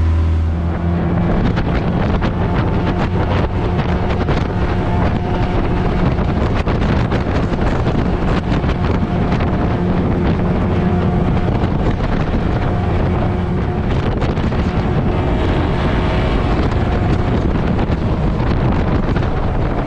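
A small boat's outboard motor running steadily under way, with heavy wind buffeting the microphone.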